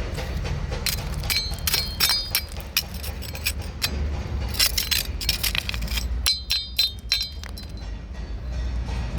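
A quick run of sharp clinks and taps with a bright ringing tone, over a steady low rumble.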